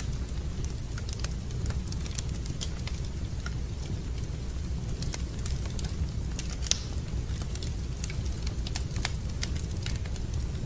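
Wood fire in a fireplace crackling, with irregular sharp pops over a steady low rumble; one pop about two-thirds of the way through is the loudest.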